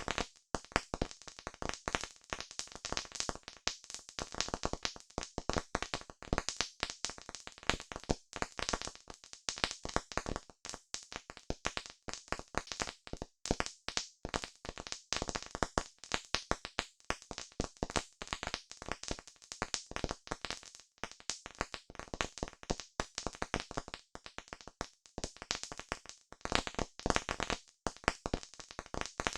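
Campfire crackling steadily, with dense, irregular pops and snaps of burning wood.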